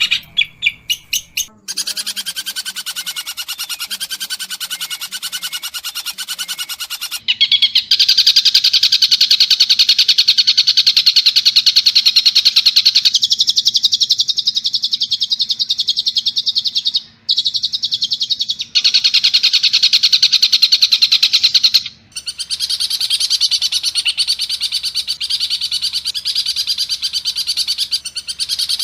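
Long-tailed shrike singing a fast, harsh chattering song of rapidly repeated notes, with a few separate sharp notes at the start. The song changes character abruptly a few times, as in spliced recordings, and a faint low hum runs under the middle part.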